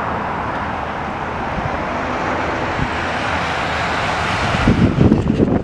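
Airliner's engines giving a steady roar as the aircraft passes. Near the end, strong wind gusts buffet the microphone.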